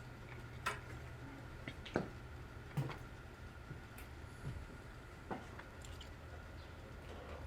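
A few scattered light clicks and knocks from hands working on a vintage pinball machine's cabinet, over a steady low hum.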